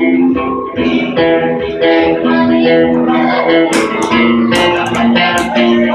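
Guitar playing a melodic instrumental passage of a slow song, single notes and chords changing every half second or so, with sharper plucked strokes in the second half.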